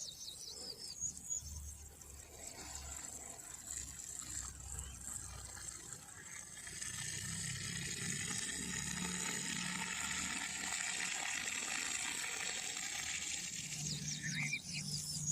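Flowing water, with a steady rush that grows louder about halfway through. A bird gives a quick trill of rapid high notes near the end.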